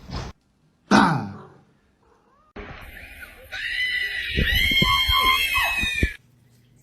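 A brief falling cry, then a long high-pitched scream lasting about three and a half seconds that cuts off suddenly, with a few low knocks under it.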